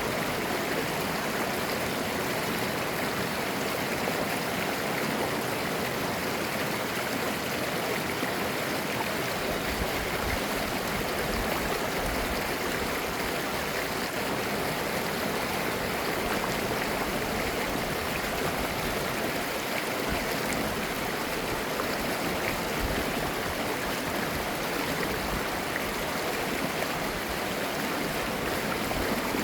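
A mountain valley stream flowing over rocks, a steady rushing and babbling of clear water.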